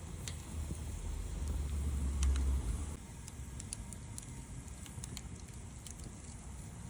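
Wood campfire crackling, with scattered sharp pops, over a low rumble that stops about three seconds in.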